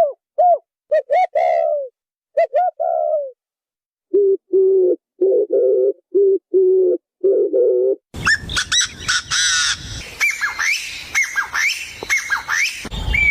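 Birds calling. First come short rising-and-falling calls, then a run of lower repeated cooing notes. About eight seconds in it cuts abruptly to a busier chorus of quicker, higher chirps over a steady hiss.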